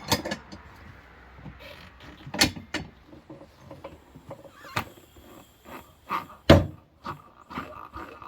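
Manual tire changer's bead breaker being worked down against the tire to break the bead: a string of separate metal clunks and knocks, the loudest about six and a half seconds in.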